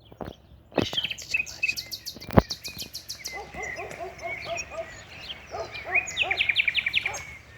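Several birds chirping and singing, with quick runs of repeated notes and a fast trill near the end. A single sharp knock sounds about two and a half seconds in.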